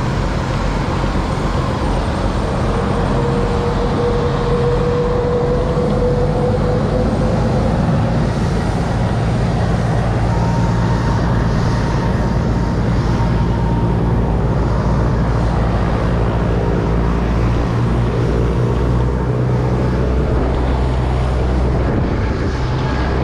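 Twin piston engines of a Cessna 402 running steadily, heard from inside the cockpit: a loud, even drone with a faint tone that slowly rises in pitch early on.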